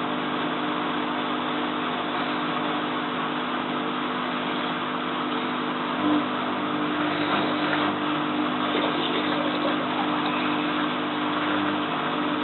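Bosch WFF2000 washing machine running, its motor and drum giving a steady hum with a few held whining tones, with a slight swell about halfway through, as it works toward a spin with an unbalanced load.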